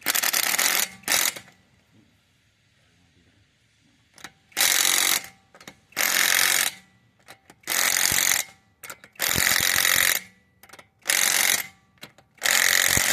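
Impact wrench running lug nuts onto a wheel's studs in about eight short bursts, each under a second, with a second or so between them and a pause of about three seconds after the first two.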